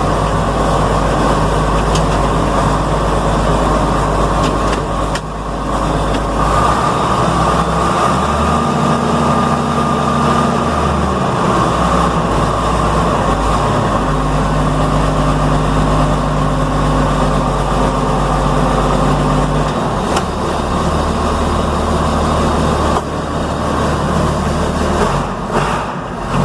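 Combine's diesel engine running while the machine is driven, shortly after a cold start; the engine note shifts in steps several times.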